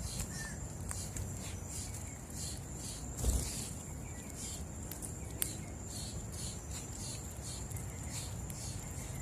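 Outdoor insect and bird ambience: a steady high insect drone runs under short high chirps that repeat irregularly about twice a second. A soft low thump comes about three seconds in and a single sharp click shortly after.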